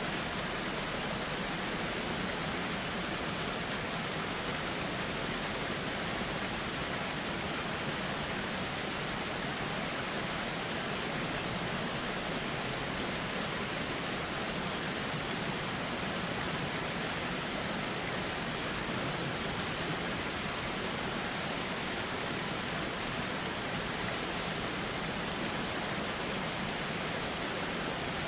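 Steady rushing of a gently flowing river, an even, unbroken hiss of water with no distinct splashes or other events.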